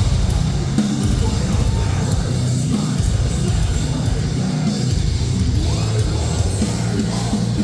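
Live metalcore band playing loud: heavy distorted guitars, bass and drums, as recorded from the crowd.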